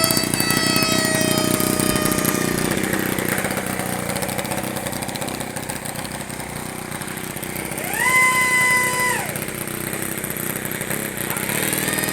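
Radio-controlled model helicopter's motor whining: the pitch falls away over the first couple of seconds, then about eight seconds in it rises sharply, holds for about a second and drops back.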